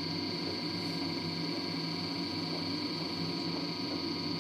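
LG DirectDrive washer dryer running its drying cycle: a steady machine hum with a high whine over a low, pulsing rumble from the turning drum.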